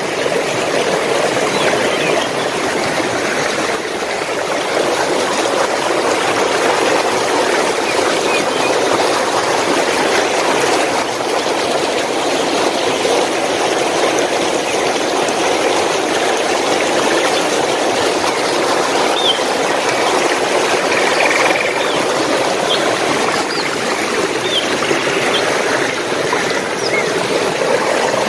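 Steady rush of flowing water, like a stream. A few short, faint bird chirps come through in the second half.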